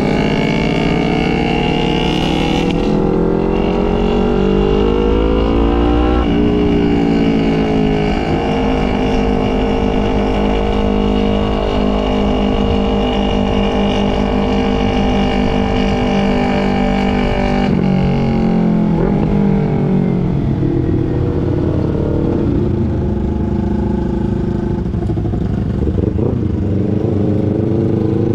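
A 250 cc sport motorcycle engine heard while riding. The revs climb for the first few seconds, hold a steady high note, drop about eighteen seconds in, then build again near the end.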